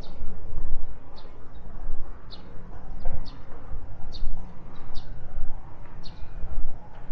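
A bird chirping: short, high chirps repeated about once a second, over a steady low rumble.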